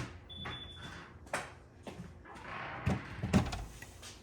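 Scattered light clicks and knocks of drill bits being handled and sorted, as someone sizes up which bit to use.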